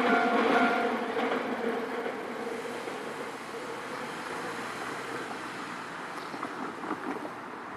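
A Nankai Electric Railway train running away from a level crossing, its rumble fading steadily. The crossing's ringing warning bell cuts off about a second in.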